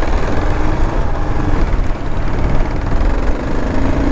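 Kawasaki KLR 650's single-cylinder four-stroke engine running steadily under the rider, with a dense low rumble.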